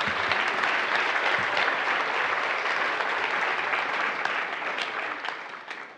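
Seminar audience applauding steadily, then fading out near the end.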